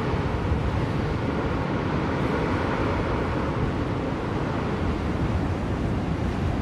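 Steady blizzard wind blowing, a dense, even rush of noise weighted toward the low end, with no gusts or breaks.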